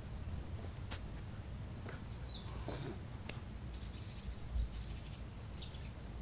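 Birds chirping: short, high calls that drop in pitch, coming in clusters from about two seconds in, over a low steady rumble.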